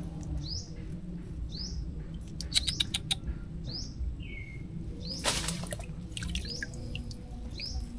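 A bird calling, a short rising chirp repeated about once a second. Several sharp clicks come about two and a half seconds in, and a brief rush of noise about five seconds in.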